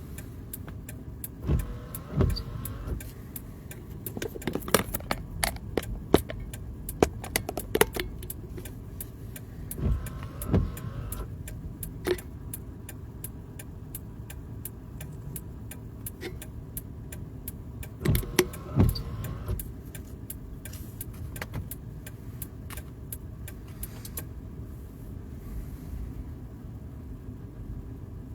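Inside a car: a steady low rumble with scattered clicks and knocks, heaviest in short clusters about two, ten and eighteen seconds in, then quieter near the end.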